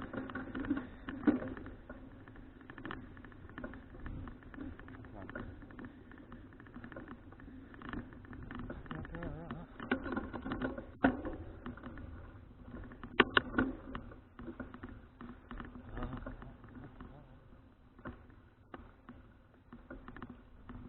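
Bicycle riding on a paved road: a steady rolling noise of tyres and drivetrain, with scattered rattles and clicks, the sharpest a few about 11 and 13 seconds in.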